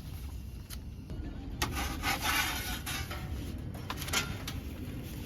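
Rubbing and scraping, densest about two seconds in, with a few sharp clicks.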